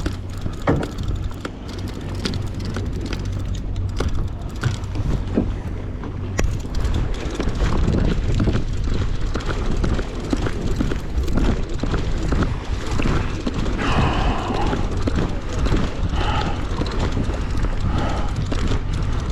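Fishing boat's engine running steadily as a low hum under wind and water noise, with scattered clicks and knocks from handling gear and faint voices in the background about two-thirds of the way through.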